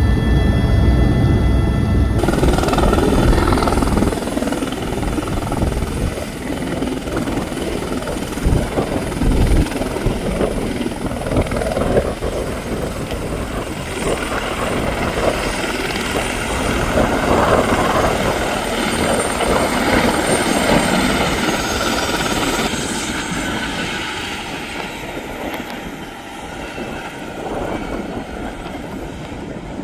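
Helicopter in flight: steady rotor and engine noise. Near the end the sound eases off while a high whine falls in pitch.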